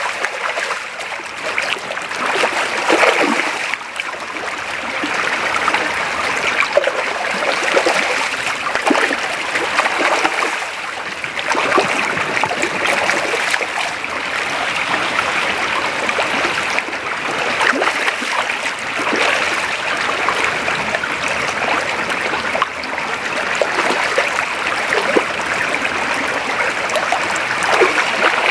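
A small creek running over shallow riffles: steady rushing and babbling water, with small splashes scattered through it.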